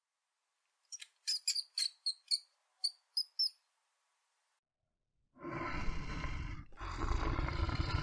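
A vole squeaking: about ten short, high squeaks over two and a half seconds. A little past halfway a brown bear starts growling, a loud, rough growl with one short break, which is the loudest sound here.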